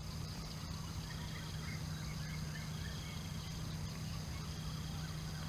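Steady outdoor background: a constant low hum with a thin high drone above it and faint scattered chirps.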